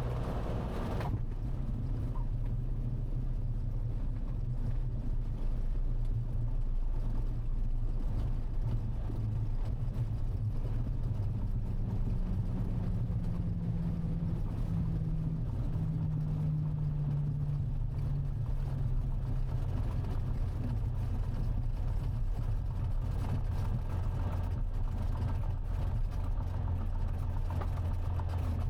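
Cessna 182T's Lycoming IO-540 six-cylinder engine running at low taxi power, heard inside the cockpit, a steady drone whose pitch rises a little about halfway through and then settles back.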